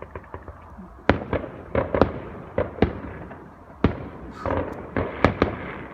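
Fireworks going off: a string of about ten sharp bangs at uneven intervals, with a stretch of crackling a little past the middle.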